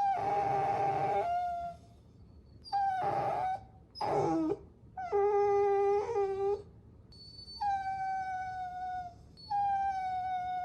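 Puppies whining in a series of about six high-pitched whines, each a second or so long and sliding slightly down in pitch at the end. One whine near the middle drops steeply in pitch.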